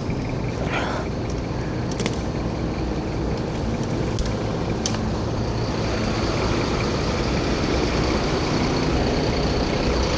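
Motor vehicle engine idling, a steady low rumble that grows a little louder in the second half, with a few faint clicks.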